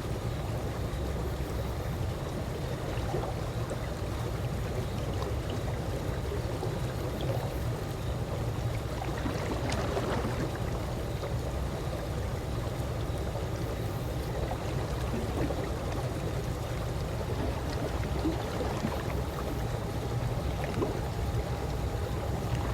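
Calm swimming-pool water lapping and trickling steadily, with small splashes and gurgles over a continuous low wash.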